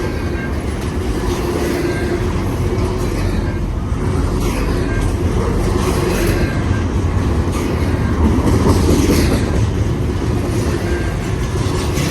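Intermodal freight train cars rolling past: a steady rumble of steel wheels on the rails, with recurring clacks as the wheels cross the rail joints.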